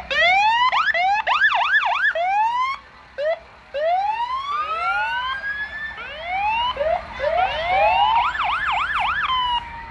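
Several electronic fire truck sirens sound together in repeated short rising whoops. Fast up-and-down yelp cycles break in about a second and a half in and again near the end.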